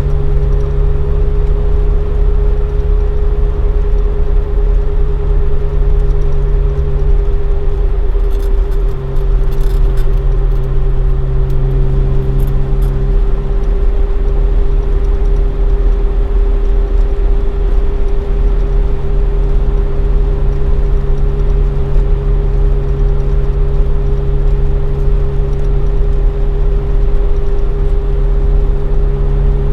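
Toyota AE86 Sprinter Trueno with a swapped AE111 five-valve (20-valve) four-cylinder engine on four individual throttles and a Fujitsubo Legalis R exhaust, cruising at fairly steady revs. Light rattling between about eight and thirteen seconds in.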